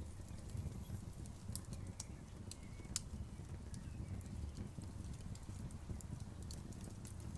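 Wood campfire burning: a low steady rumble with scattered sharp crackles and pops, a few of them louder, one about three seconds in.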